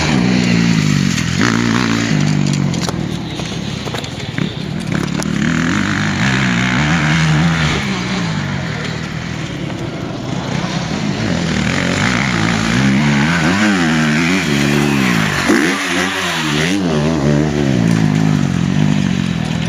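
Motocross bike engine revving hard, its pitch rising and falling over and over as the throttle opens and closes and it shifts gears, with a rushing noise under it.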